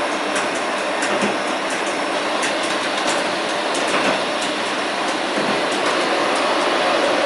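Train running on rails: a steady rolling noise with faint, irregular clicks, and a faint steady tone that grows slightly louder near the end.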